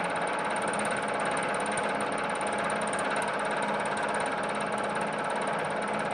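Milling machine spindle running with a fly cutter taking a hand-fed cut across a steel part: a steady, rapid chatter from the single-point tool's interrupted cut, with the machine's running hum.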